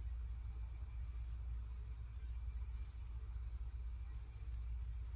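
Insect chorus, crickets by its sound, trilling steadily at a high pitch, over a low hum.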